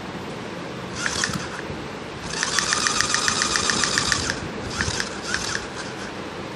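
Rapid mechanical clicking, several clicks a second for about two seconds in the middle, with a few scattered clicks and rustles before and after.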